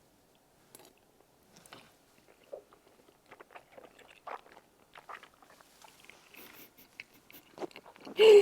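Close-up mouth sounds of someone chewing a mouthful of tteokbokki rice cakes, melted cheese and rice: soft irregular smacks and clicks. Near the end there is one short, much louder sound.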